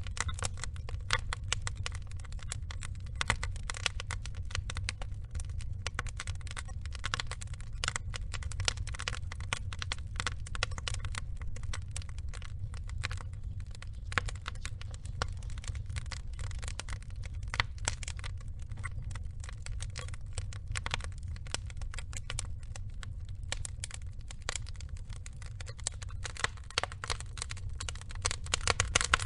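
Wood logs burning in a fire, crackling with a dense, irregular run of small pops and snaps over a steady low rumble.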